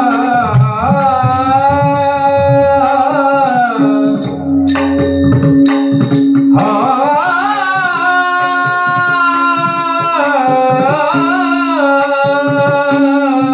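Marathi kirtan singing: a devotional melody sung over a steady drone, with drum strokes and regular small cymbal-like ticks keeping the beat. The voice pauses for a couple of seconds about four seconds in while the drum plays on, then takes up the melody again.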